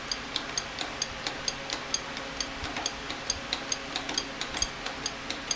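Steady light mechanical ticking, about four even ticks a second, over a faint hum.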